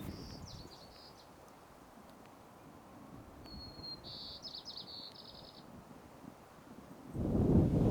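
A small bird chirping in two short quick series, the second opening with a thin high whistle, over a faint steady background hiss. Near the end, a loud low rushing noise sets in abruptly.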